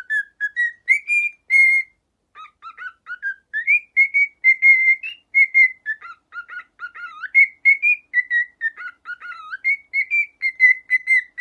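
Parrot whistling a tune: a long string of short, clear whistled notes that glide up and down, with a brief pause about two seconds in.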